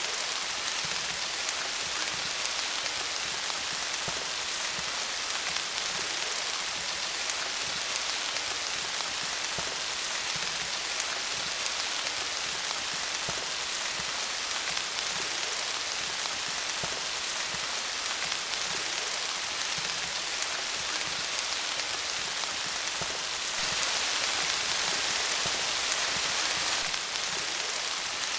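Steady rain falling on leaves: a dense, even hiss of patter with individual drops ticking through it. It swells a little louder for a few seconds near the end.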